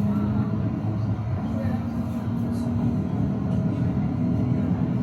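Tram running along its tracks: a steady low rumble of wheels on rail with a held motor tone that steps up slightly in pitch about a second and a half in.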